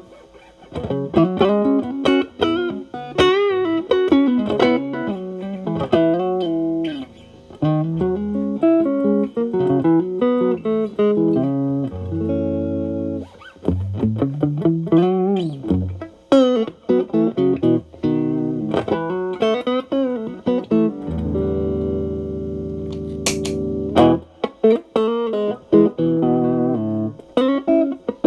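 Stratocaster played through a Xotic AC Plus overdrive on its main drive channel (Ch.B, gain 9) into a Marshall Valvestate amp. It plays blues-style single-note licks with string bends and vibrato, then a held chord. A sharp click comes near the end of the chord, where the pedal's second channel is switched on to stack with the first, and the playing resumes.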